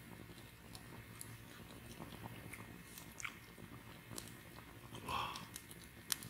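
Biting into and chewing a campfire-toasted marshmallow with a crisp, partly burnt crust: soft, close mouth sounds with scattered small crackles and clicks, and a sharp click near the end.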